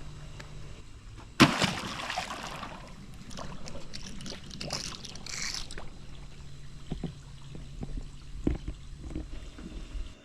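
Water splashing and sloshing, with one sudden loud splash about a second and a half in, then a stretch of rushing water and a couple of sharp knocks.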